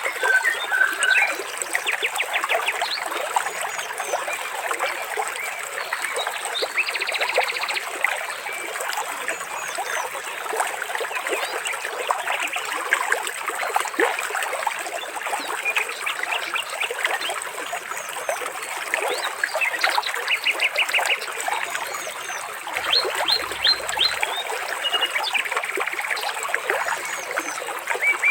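Water trickling and splashing steadily, with birds chirping and giving quick trills over it throughout.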